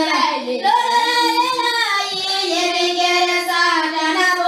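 Children singing together, long held notes that step up and down in pitch without a break.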